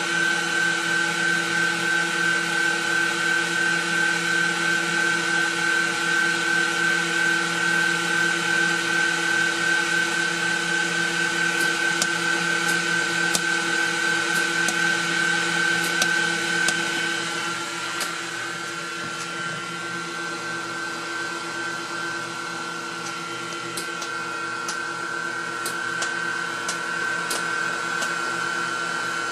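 Jewelry laser welding machine running with a steady, high-pitched whining hum. From a little over a third of the way through, sharp single ticks come at irregular intervals, typical of a pulsed laser welder firing one spot weld at a time.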